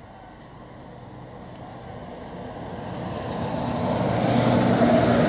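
WAM-4 electric locomotive hauling a passenger express at speed, approaching and passing close by: the rumble of its wheels and motors grows steadily louder and is loudest as it passes, about four seconds in.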